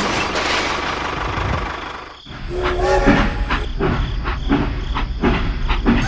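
Steam train sound effect: a steady hiss, a brief drop about two seconds in, then a short whistle-like tone and rhythmic clickety-clack over a rumble.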